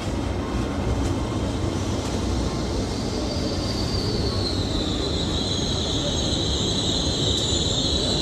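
Train running on the rails with a steady rumble; about three seconds in a high-pitched wheel squeal sets in, drifting slightly lower in pitch.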